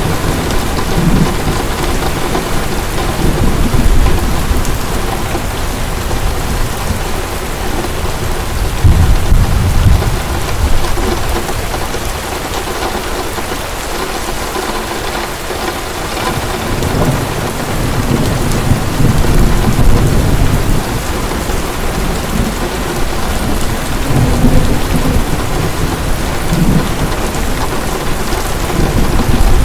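Heavy rain pouring steadily, with rolls of low thunder rumbling through it several times.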